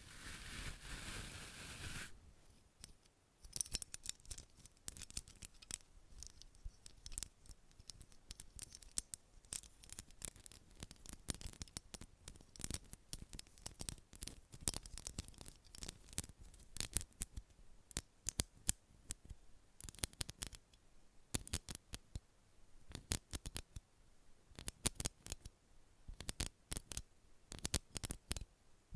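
Close-miked ASMR trigger sounds: a soft rustle for about two seconds, then a long run of quick, crisp clicks, several a second, in an uneven rhythm.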